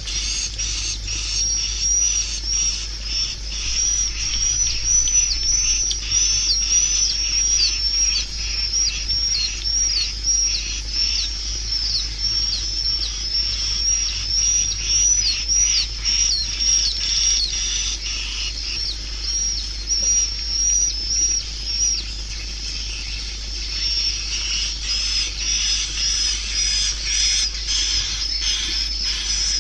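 Swiftlet calls: a dense, continuous stream of rapid high chirps and twitters with quick downward-sweeping notes, thinning briefly past the middle, over a steady low hum. This is the kind of swiftlet call track played to lure swiftlets into a bird house.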